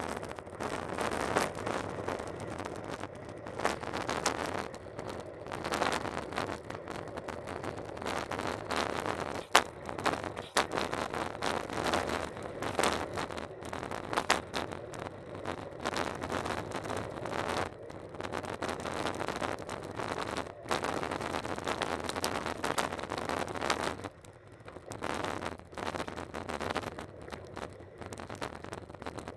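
Bicycle in motion: a steady rushing noise of wind and tyres, dotted with frequent clicks and rattles from the bike.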